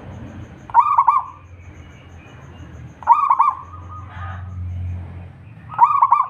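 Zebra dove (perkutut) cooing: three phrases about two and a half seconds apart, each a quick run of notes ending in a short held note.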